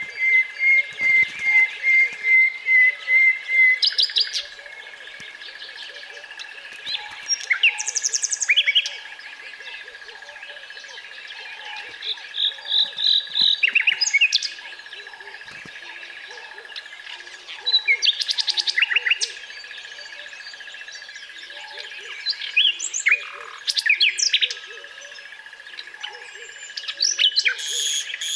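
Songbirds singing in bursts of chirping phrases every few seconds, with a quick run of evenly repeated notes in the first few seconds. A steady high-pitched tone runs underneath the whole time.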